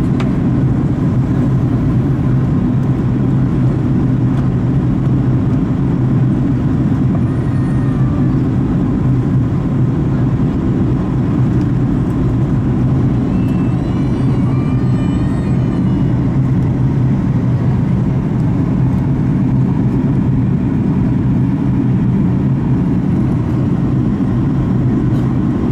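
Steady cabin drone of a Boeing 737 MAX 8 in descent: CFM LEAP-1B engine and airflow noise with a constant low hum. A faint, high wavering sound comes in briefly around the middle.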